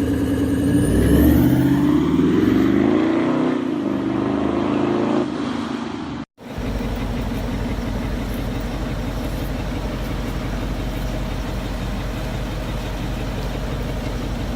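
Diesel engine revving, its pitch rising and falling over the first few seconds with a high whistle climbing about a second in. After a sudden cut, a diesel engine idles steadily with a deep hum.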